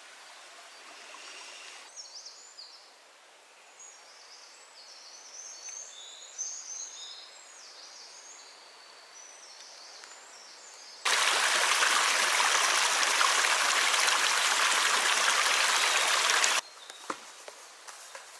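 Small forest birds chirping and twittering in many short, high calls. About eleven seconds in, a loud, steady rush of flowing spring water cuts in suddenly and stops just as suddenly some five seconds later.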